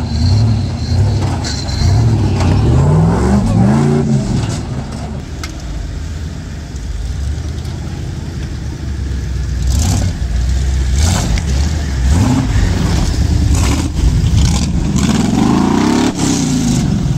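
Off-road competition vehicles' engines revving hard in repeated bursts, the pitch rising and falling as they climb a steep rock-and-dirt step. There are a few sharp clatters in the second half.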